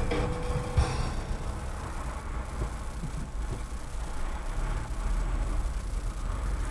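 Low, steady rumble of a car's engine and tyres at low speed, heard from inside the cabin through a dash cam.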